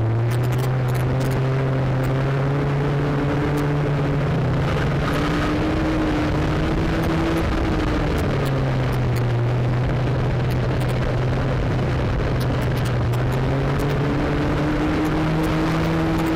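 A junior banger race car's engine heard from inside the cabin, running hard around the track. Its pitch climbs, drops back about halfway through and climbs again near the end as the throttle changes, over a constant rush of road and wind noise with scattered clicks.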